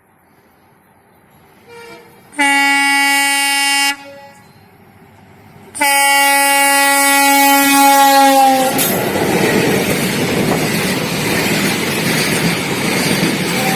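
Diesel freight locomotive horn sounding two long blasts, the second longer and dipping slightly in pitch as it ends; then the double-stack freight train passes close by, its wheels and wagons making a loud steady rumble.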